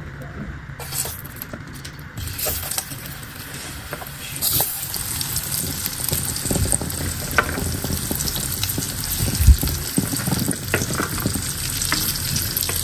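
Raw potato slices going into hot oil in a nonstick frying pan and sizzling, with a few light knocks. The sizzle starts about two seconds in and grows louder.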